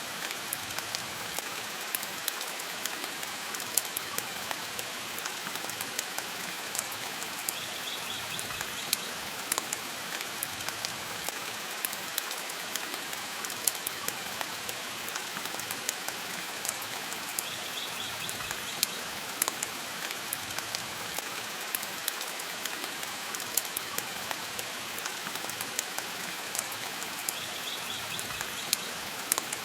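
Steady rain and a wood fire crackling in a stone fireplace: an even, constant hiss with frequent sharp pops and snaps scattered through it. A faint, brief high trill recurs about every ten seconds.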